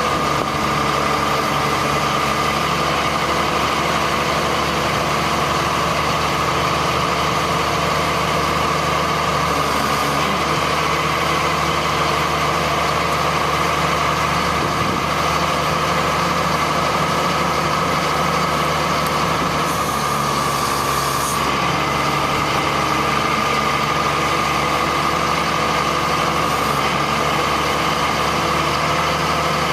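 1999 GMC digger truck's engine running steadily, with a constant high whine over the low rumble. A brief hiss comes about two-thirds of the way through.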